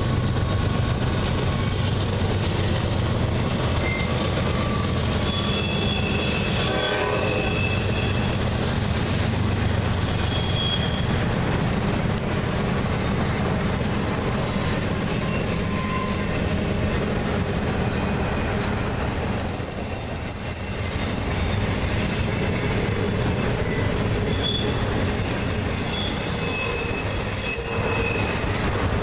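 Freight train cars rolling past on steel rails, with a steady rumble and wheel flanges squealing in short high-pitched tones that come and go.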